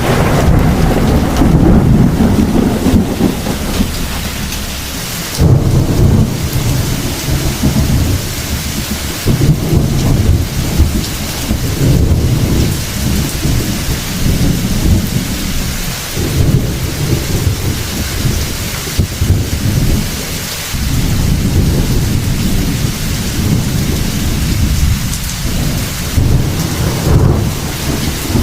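Heavy rain falling steadily, with rolls of thunder rumbling low and swelling and fading again several times.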